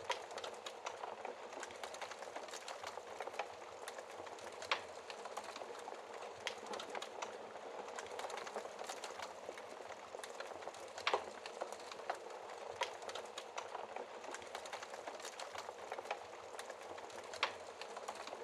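Wood fire burning in a fireplace, crackling steadily with many small snaps and a louder sharp pop every few seconds.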